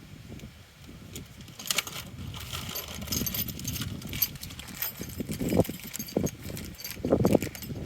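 Metal parts of a truck-hitch game hoist clinking and clicking as they are handled and pinned together, with a couple of heavier knocks in the second half.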